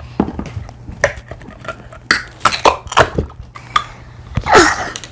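Handling of a packaged drink and tableware: a string of sharp clicks and taps, with a louder rustling scrape about four and a half seconds in.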